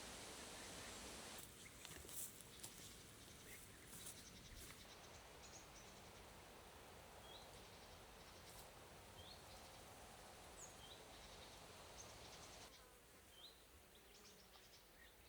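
Quiet forest ambience: a faint steady hiss with a small bird's short, high chirps repeating every second or two, and a few faint clicks in the first few seconds.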